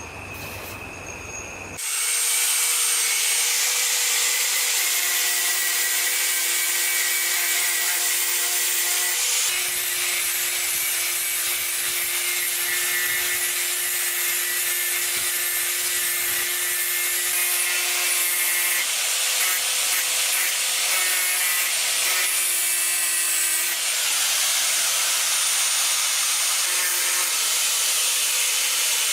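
A power tool running under load, starting abruptly about two seconds in: a steady, hissing, mostly high-pitched noise with faint steady whines through it.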